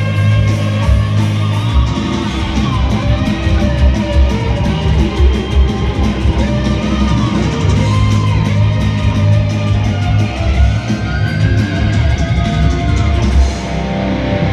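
Heavy metal band playing: electric guitar lines weave over bass and drums, with fast, steady cymbal hits.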